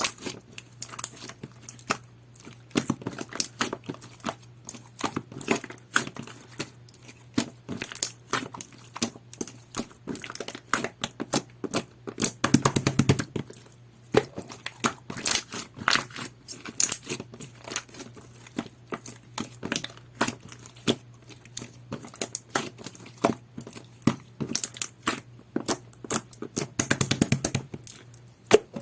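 Jelly-textured slime being squished and pressed by hand, giving rapid, irregular sticky clicks and small air-pocket pops, with denser flurries about halfway through and near the end. A faint steady low hum sits underneath.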